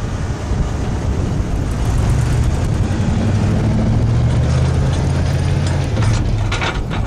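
A vehicle's engine running with a steady low hum under road noise while moving slowly through deep snow, the hum growing a little stronger in the middle. A few short crackling noises come near the end.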